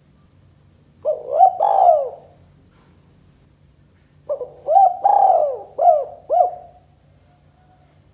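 Spotted dove cooing: two phrases of short, arched coos, the first starting about a second in and the second, longer one about four seconds in.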